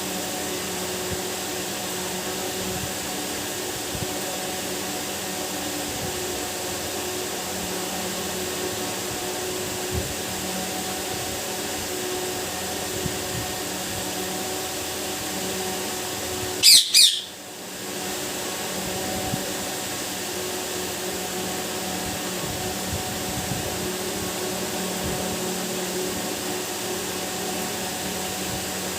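A pet parakeet gives one loud, shrill squawk in two quick pulses about halfway through. Under it a steady machine-like hum runs throughout and dips for a moment after the squawk.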